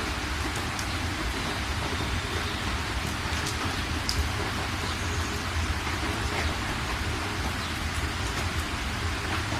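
Steady rain falling and pattering on surfaces, with occasional sharper drops and a constant low rumble underneath.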